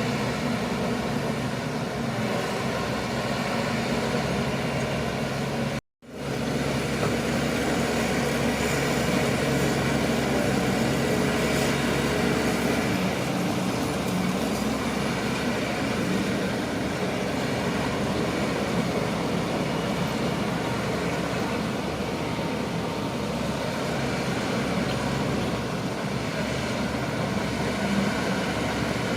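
Shantui crawler bulldozer's diesel engine running steadily under load, with a low rumble and a steady drone. The sound drops out completely for a moment about six seconds in, then resumes.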